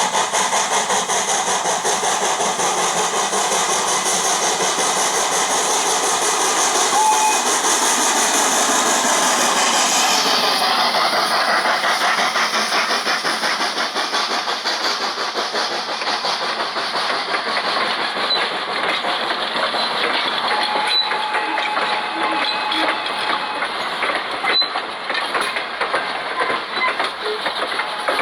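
H.K. Porter 0-6-0T tank steam locomotive working along with rapid exhaust chuffs and steam hiss, over the clatter of train wheels on the rails. The high hiss drops away about ten seconds in.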